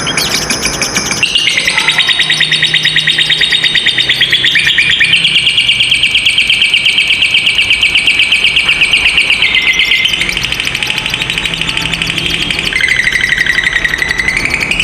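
Lovebird's long, very fast chattering trill (ngekek panjang): a high-pitched, evenly pulsed chatter that starts about a second in and runs unbroken for about nine seconds, stepping in pitch, then resumes with a rising trill near the end.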